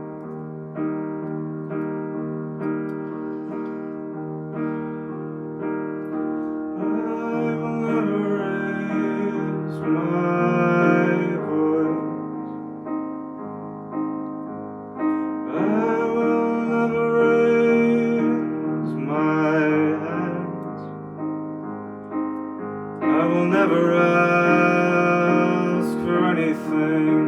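Live solo performance of a song: piano chords played steadily, with a voice singing in phrases over them from about seven seconds in.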